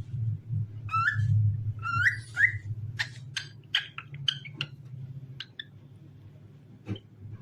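Cockatiel whistling and chirping: a few short rising whistled notes about one and two seconds in, then a quick run of short, sharp chirps, over a steady low hum.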